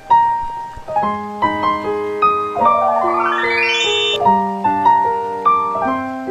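Background piano music: a gentle melody of single notes over low bass notes, with a climbing run of notes a few seconds in.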